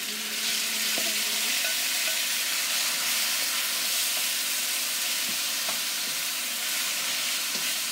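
Raw shrimp frying in hot oil with minced garlic and ginger in a wok: a steady sizzling hiss that swells just after the shrimp go in, stirred with a wooden spoon that gives a few light knocks.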